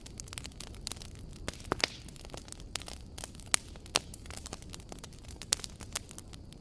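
Wood fire crackling in a fireplace: irregular sharp pops and snaps over a low steady rumble, with a few louder pops about two, three and a half, four and five and a half seconds in.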